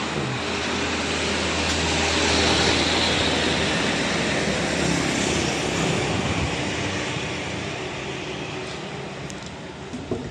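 A motor vehicle's engine running, loudest two to three seconds in and then slowly fading, over a background of road noise. A short sharp knock comes near the end.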